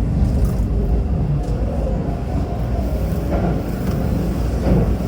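Steady low rumble of a Hanshin Railway electric train running, heard from inside the passenger car.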